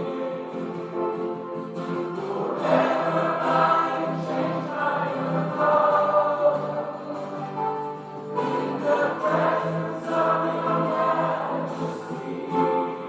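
Many voices singing a hymn together.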